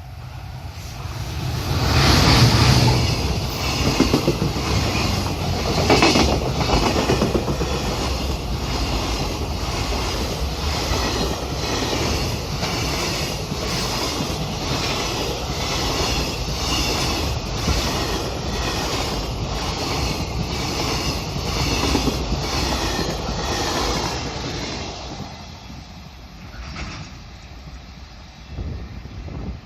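Freight train passing: wagon wheels clattering over rail joints in a steady, even rhythm. It builds up about two seconds in and fades away near the end.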